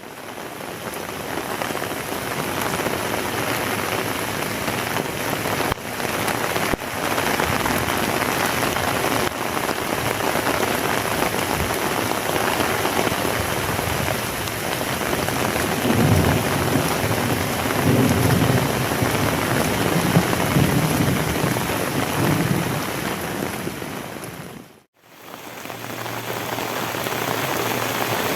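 Heavy rain pouring steadily, with a few low rumbles a little past the middle. The sound drops out briefly near the end and then returns.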